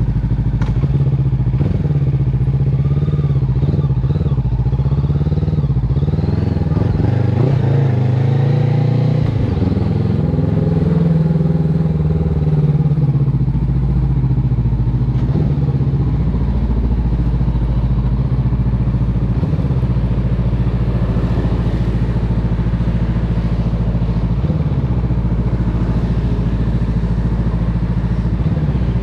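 Honda CB500X's parallel-twin engine running through an aftermarket Termignoni exhaust, idling after a start. Its pitch wavers through roughly the first half, then it settles to a steady idle.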